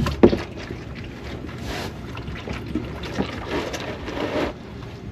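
Hot engine oil gushing out of the 6.6L LLY Duramax's oil pan drain hole into a drain pan, a steady splashing rush. Two sharp knocks sound right at the start.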